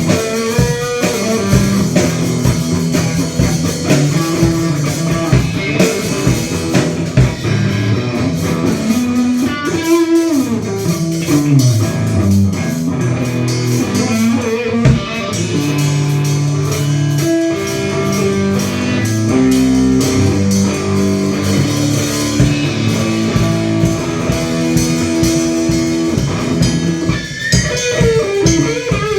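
Rock band playing a blues-rock piece: guitar over bass and drums, with sliding guitar notes sweeping down about ten seconds in.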